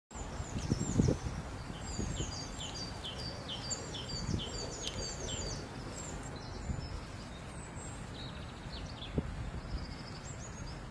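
A small bird singing a quick run of high chirps, repeated over and over, for the first half, then only scattered notes later on. Under it is a steady low outdoor rumble with a few soft thumps.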